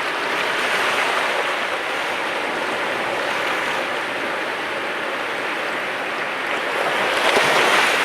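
Mediterranean sea waves washing onto the shore: a steady rush of surf that swells louder about a second in and again, more strongly, near the end as waves break.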